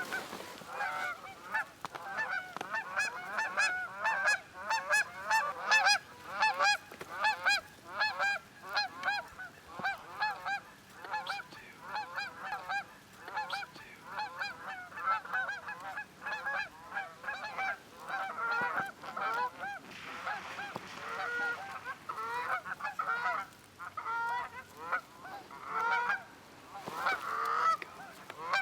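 Goose honking and clucking in quick, continuous runs of several calls a second.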